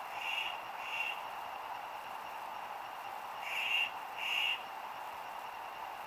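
Four short bird calls in two pairs: one pair at the very start and another about three and a half seconds in.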